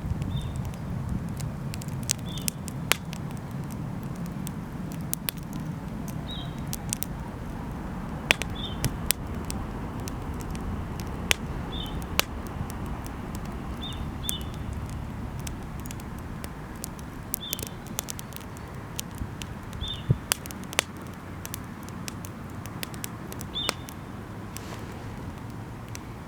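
Wood bonfire crackling, with sharp pops scattered irregularly over a low steady rumble. A short high chirp repeats every second or two throughout.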